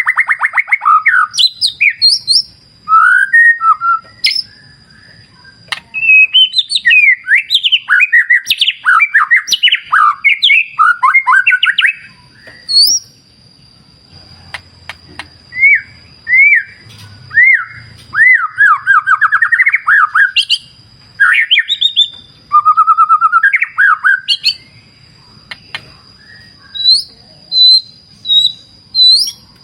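White-rumped shama (murai batu) singing: loud, varied whistled phrases and quick rising and falling note runs, delivered in bursts with short pauses between them.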